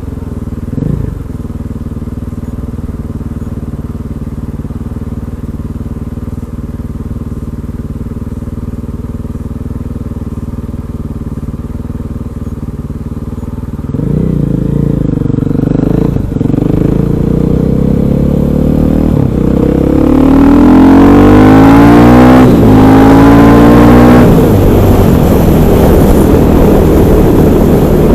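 KTM 500 EXC's single-cylinder four-stroke engine running steadily at low revs, then pulling harder about halfway through. Toward the end it accelerates, rising in pitch through a couple of gear changes, and then holds a louder, steady run.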